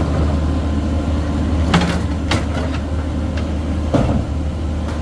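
Heavy diesel engine running steadily with a constant low hum, with a few short sharp knocks, most plainly a little under two seconds in and again around four seconds in.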